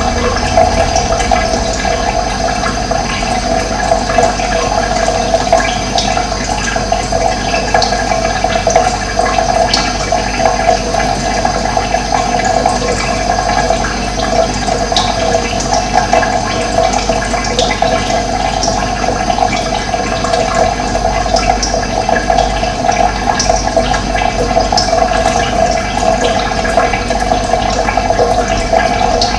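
Steady rush of flowing water, running evenly throughout, with occasional brief high chirps of birds over it.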